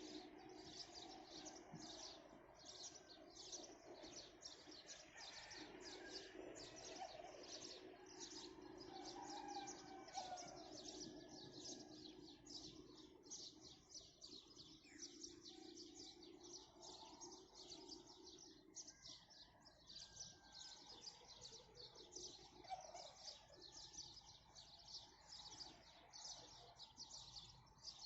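Faint birdsong: a steady run of short high chirps at about two a second, with softer gliding bird calls underneath.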